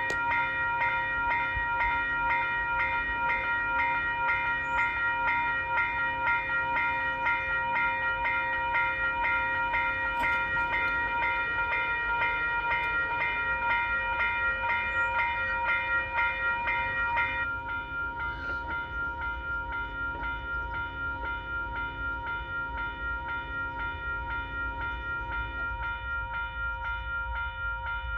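Western Cullen Hayes electronic level-crossing bells ringing with fast, even strokes as the crossing activates for an approaching train. About 17 seconds in the ringing turns quieter and duller, over a low rumble.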